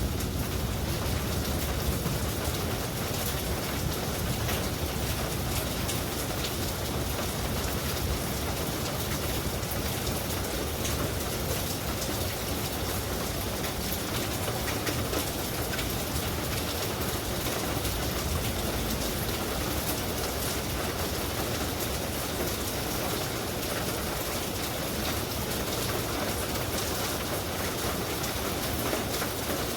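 Heavy rain falling steadily, a dense even patter. A low rumble underneath eases after about twenty seconds.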